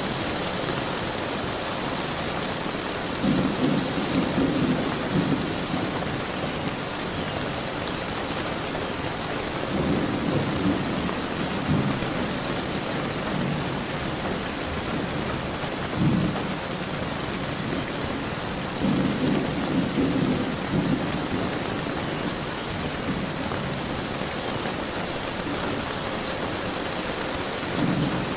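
Steady rain falling in an even hiss, with thunder rumbling in low rolls about six times, the longest a few seconds in and about two-thirds of the way through, and one short sharp clap about halfway through.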